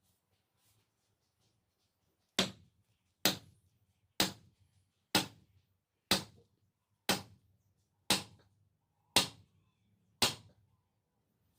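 Hand hammer striking the steel of a dao blade forged from a car leaf spring, nine evenly spaced blows about a second apart, each with a brief ring.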